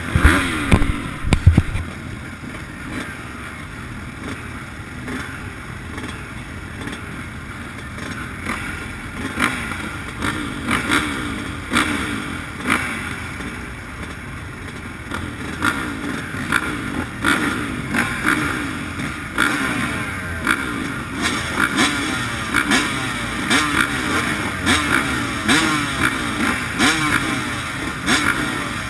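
Motocross bike engine revving hard and falling back over and over as it shifts through the gears, heard close up from an onboard camera. Frequent knocks and clatter from the bike over rough ground, with heavy thumps in the first couple of seconds.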